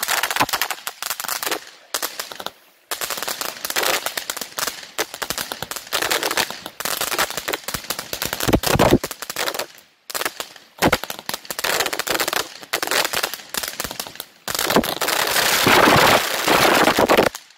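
Firework battery firing on the ground: dense runs of rapid crackling reports, with a few brief gaps between runs, cutting off suddenly near the end.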